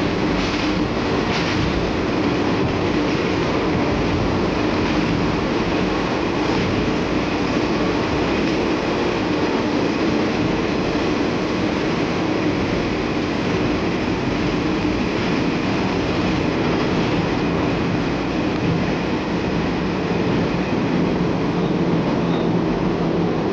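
A Watarase Keikoku Railway diesel railcar running along the track: a steady rumble of the engine and wheels on rails. Near the start there are a few clicks about a second apart, the wheels going over rail joints.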